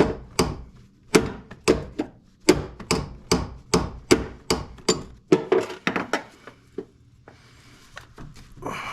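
Hammer tapping repeatedly on a wrench, about three sharp metal strikes a second, to shock loose the stuck 18 mm fitting of a power steering high-pressure line. The strikes stop about six seconds in.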